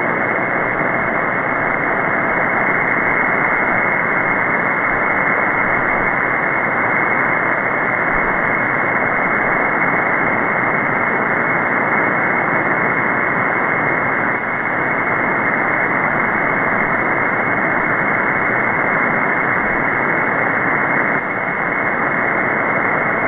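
Steady hiss of shortwave band noise from an SDRplay RSPduo receiver in upper-sideband mode on the 20-metre band, narrowed to the receiver's voice filter so it sounds muffled with no high end. No station is being received on the frequency at this point, only the open channel's noise.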